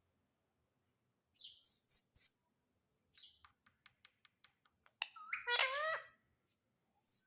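Indian ringneck parrot vocalizing: a few short, high-pitched screeches, then a run of quick clicks, then a longer call that rises in pitch, and two more short high calls near the end.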